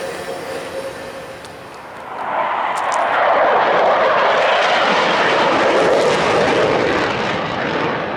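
Rushing noise of a passing vehicle that swells about two seconds in, holds for several seconds and eases off near the end.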